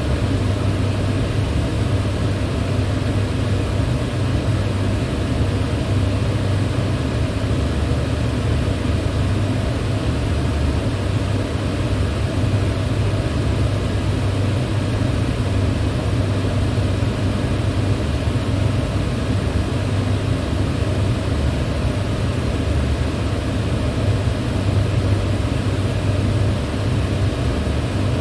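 Electric fan running steadily: a constant low hum of motor and blades under an even rush of moving air.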